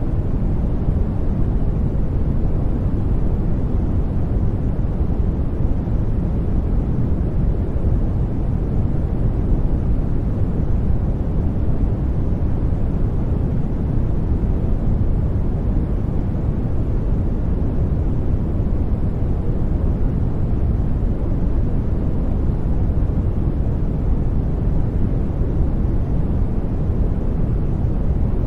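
Steady sleep-aid noise, deep and even, with most of its weight low down like brown noise and no change in level or pitch.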